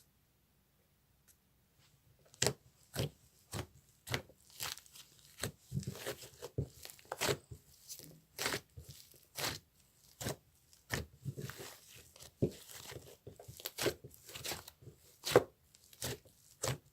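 An irregular series of sharp, crisp crackles and taps, about two a second, beginning about two seconds in.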